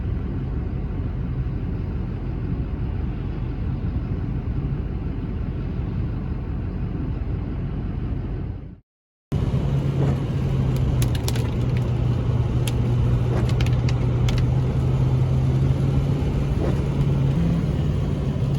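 Vehicle noise heard from inside a moving truck: a steady low road rumble, then after a sudden cut a steady engine drone with a low hum and a few scattered clicks.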